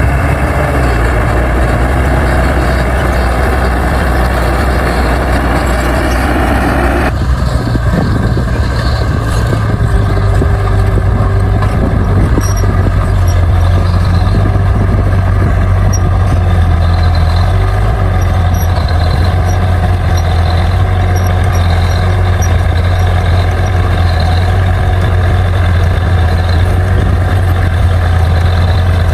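Bulldozer's diesel engine running steadily under load, with the sound changing abruptly about seven seconds in.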